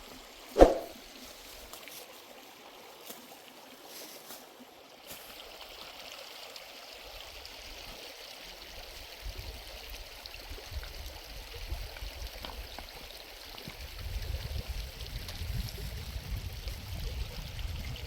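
Mountain stream flowing steadily. A single sharp knock with a short ringing tail comes just under a second in, and a low rumble builds up in the second half.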